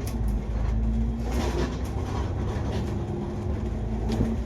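Inside the cabin of a moving KMB double-decker bus: steady low engine and road rumble with a faint hum and scattered light rattles.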